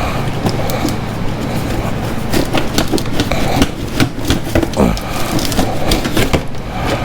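Irregular knocks, taps and scraping as parts are worked loose by hand under the vehicle, with a low steady hum in the first half or so.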